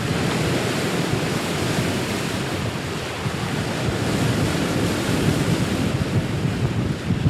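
Steady rush of wind buffeting the microphone over ocean water washing and sloshing, with no distinct strokes or tones.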